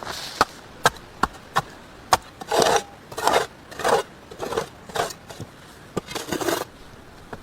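Wood being worked by hand: five sharp wooden knocks in the first two seconds, then a run of short, rough scraping strokes.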